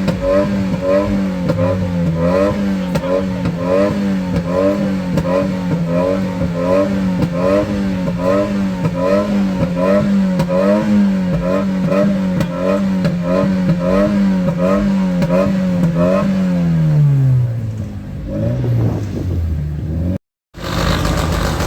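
A car engine held at high revs, its pitch wavering up and down about once a second as the throttle is worked, then the revs fall away about three-quarters of the way through. The sound cuts off briefly near the end.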